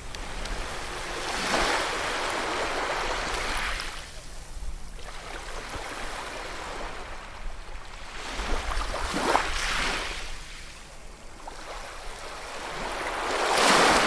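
Ocean waves breaking, heard as three rising and falling swells of surf, the last near the end the loudest.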